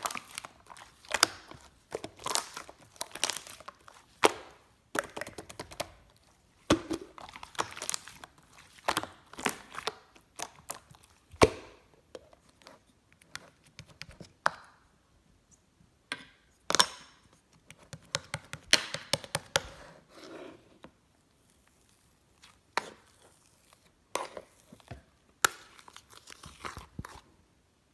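Slime being squeezed, stretched and folded by hand, giving irregular sharp pops and crackles in quick clusters, with a pause of a couple of seconds about three-quarters of the way through.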